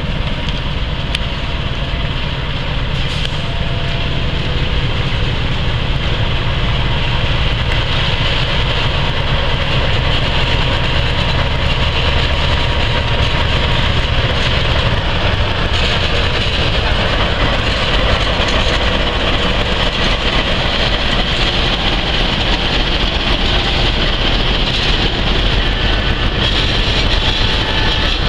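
A CC206 diesel-electric locomotive hauling a long container freight train passes close by, its engine running, followed by the steady rumble and clatter of the loaded container wagons' wheels rolling over the rails.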